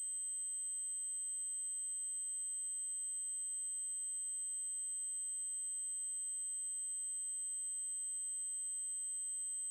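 Steady, high-pitched electronic test tone: a synthesized 8192 Hz triangle wave, held constant.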